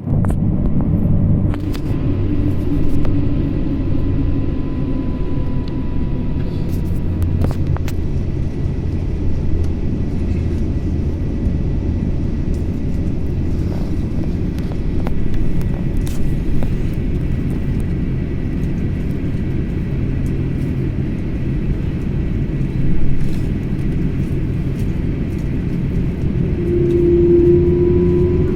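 Airbus A350 cabin noise picked up through a window, mostly a steady low rumble from its Rolls-Royce Trent XWB engines. Light ticks are scattered through it, and a brief steady hum sounds near the end.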